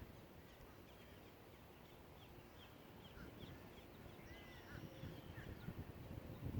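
Faint bird calls at a lake: a run of short, high chirps with one longer curved call a little past the middle, over low rumble that grows near the end.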